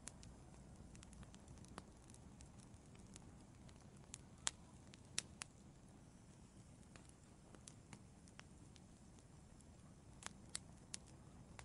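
Wood fire crackling and popping: scattered sharp pops over a faint low rumble, with the loudest pops about halfway through and a quick cluster near the end.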